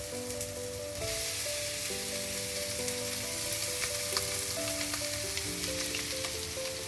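Shredded chicken sizzling in a hot pan of oil, fried onion and tomato. The sizzle grows louder about a second in as the chicken goes in, with a few light utensil clicks. Background music with held notes plays underneath.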